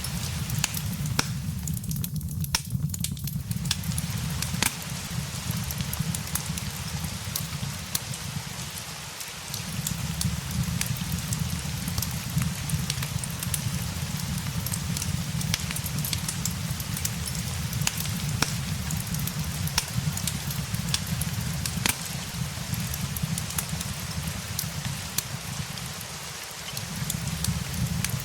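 Steady rain mixed with a crackling fireplace: a constant hiss over a low rumble, dotted with frequent sharp pops and clicks. The low rumble dips briefly twice, about nine seconds in and near the end.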